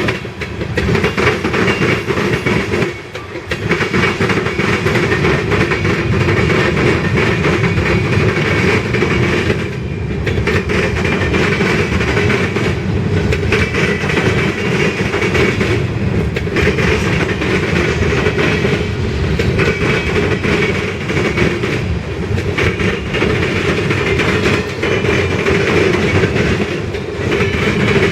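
Freight train cars rolling past: a steady rumble and clatter of steel wheels on rail, with a faint high ringing tone running through it.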